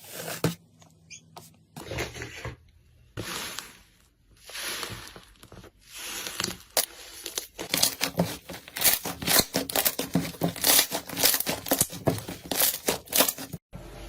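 Hands squeezing, stretching and tearing slime in several short clips, with sticky squishing and tearing sounds. About seven seconds in this becomes a run of dense crackling and popping.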